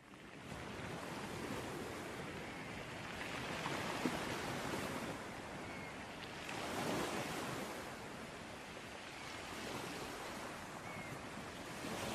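Ocean waves washing onto a beach: a steady surf wash that fades in at the start and swells and eases every few seconds.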